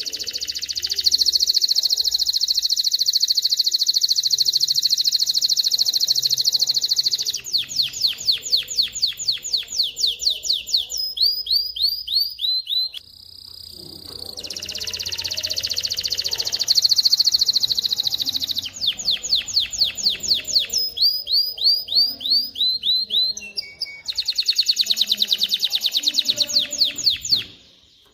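Male domestic canary singing. Long, fast, even trills alternate with runs of slower repeated sweeping notes, about four a second, with a short pause about thirteen seconds in.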